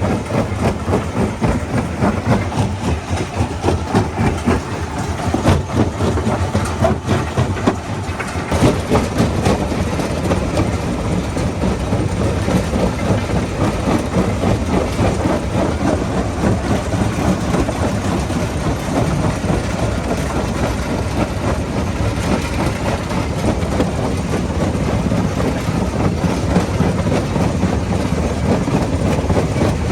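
Rock crusher running under load: a dense, continuous clatter and knocking of stones being broken, with a heavy machine running underneath. It is uneven for the first several seconds, then settles into a steadier din from about eight seconds in.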